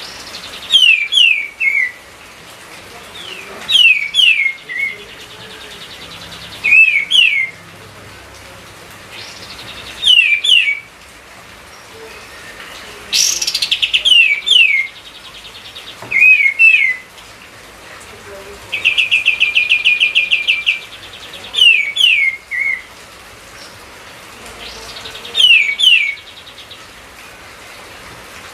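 A songbird known to Indonesian bird-keepers as kapas tembak singing: short phrases of two to four sharp, falling whistles repeated every few seconds, with one fast, even rattling trill about two-thirds of the way through. A faint steady hiss lies under the song.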